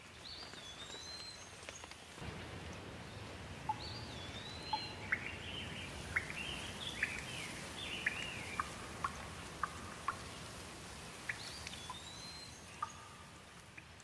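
Steady rain with birds calling over it: repeated whistled, swooping calls and short chirps. A low rumble comes in about two seconds in and stays under the rain.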